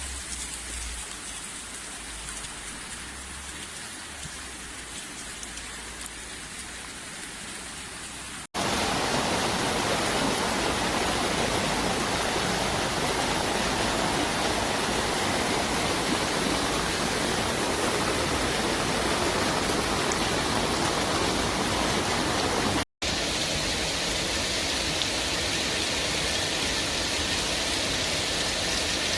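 Steady rush of heavy rain and running water. Quieter for the first eight seconds or so, then much louder, with a brief dropout at each of two cuts.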